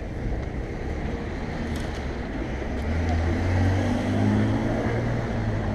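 Street noise with a motor vehicle's engine running close by, a low steady hum that grows louder about halfway through.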